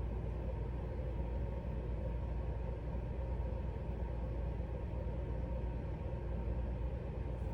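Steady low background rumble and hum with a faint steady tone, unchanging throughout.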